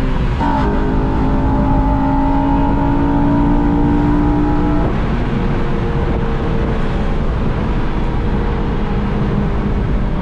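Honda Civic Si's 2.0-litre i-VTEC four-cylinder on its stock exhaust, heard from inside the cabin under hard acceleration. There is a quick upshift right at the start, then the revs climb steadily for about four seconds. Then the engine eases off and settles to steady cruising revs.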